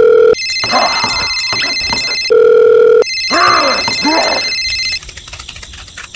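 Telephone sound effects: a steady dial-tone hum twice gives way to shrill electronic ringing, with warbling squeaks over the ringing. Near the end it drops to fast, faint clicking.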